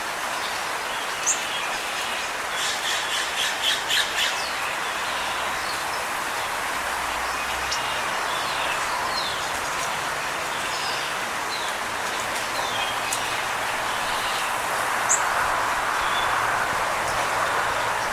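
Small birds chirping and calling over a steady background hiss. A quick run of chirps comes about three to four seconds in, with scattered single calls after it.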